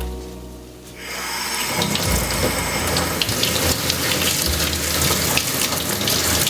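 Water running steadily from a kitchen tap, starting about a second in.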